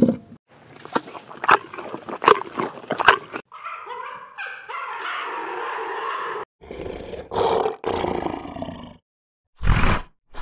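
A sequence of animal calls, cut together from separate recordings. First comes a rough, crackling stretch, then one long drawn-out call, then two shorter calls, and near the end short, loud calls repeating quickly.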